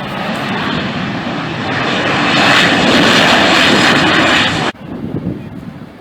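Jet airliner passing close by, its engine noise growing steadily louder to a loud peak. It cuts off abruptly a little before the end, leaving a fainter, gusty low rumble.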